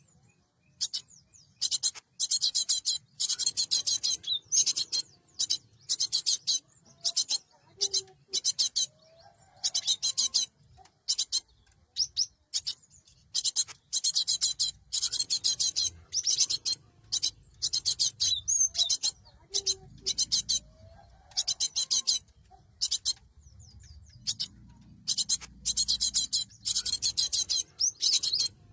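Cinereous tit (gelatik batu) calling: bursts of rapid, high, scratchy chattering notes, each lasting up to about a second and a half, repeated again and again with short gaps between them.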